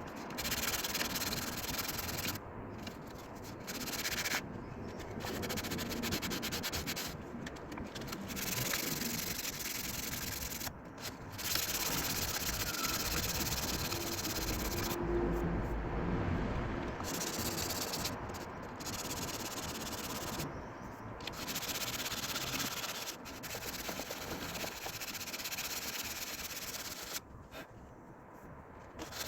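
Sandpaper rubbing over a car's body panel by hand, a stretch of noisy scraping broken by short pauses every second or few.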